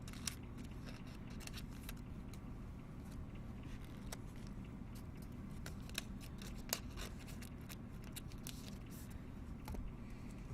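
Trading cards being handled and sorted: scattered light clicks and soft scrapes of card stock, over a steady low hum.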